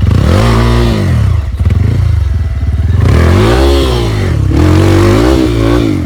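Trail motorcycle engine revving up and falling back several times in quick throttle bursts.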